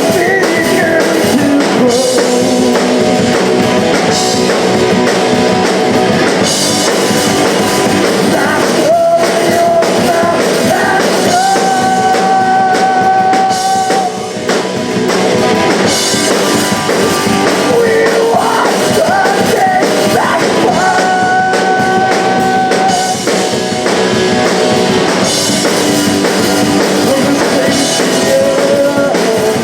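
Live punk rock band playing: singing over guitar and drum kit.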